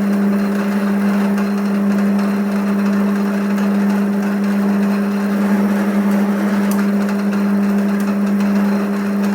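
Electric motor of a workshop machine, likely the lathe, running with a steady, unchanging hum on one low tone, with a few faint ticks.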